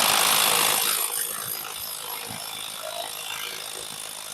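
Impact wrench hammering continuously on an LS3's harmonic balancer (crankshaft) bolt, loudest in the first second and then running steadily a little quieter. It is breaking loose the single-use bolt.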